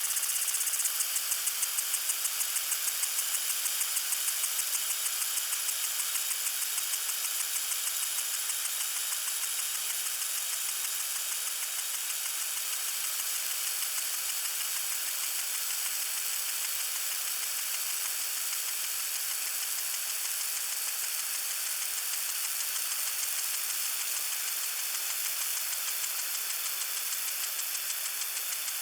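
Lawn sprinkler spraying water: a steady hiss with a fast, even pulsing, strongest in the first few seconds.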